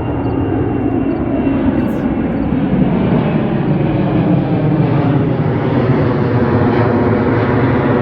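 Jet airliner flying low overhead, its engines a loud, steady noise with a layered whine that grows gradually louder.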